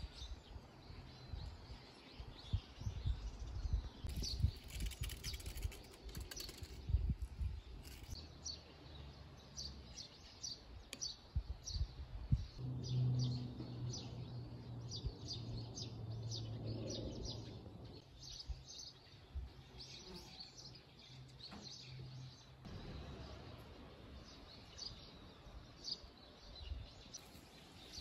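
Small birds chirping in short, repeated high notes over faint outdoor background noise. A low steady hum joins in about twelve seconds in and stops about ten seconds later.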